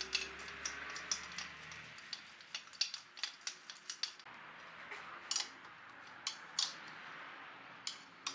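Hand tools and small metal engine parts clinking and tapping in irregular sharp clicks, during the swap of a motorcycle cylinder head's camshaft and rocker arms.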